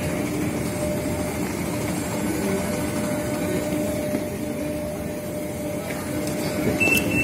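Passenger train standing at the platform, its steady hum and rumble heard up close and from inside the carriage. Near the end a high steady warning tone starts, typical of the door-closing signal.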